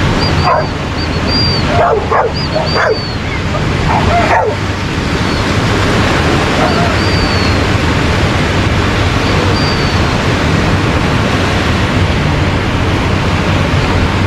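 A dog barking and yipping, about five short calls falling in pitch within the first four and a half seconds, over a steady rush of surf and wind.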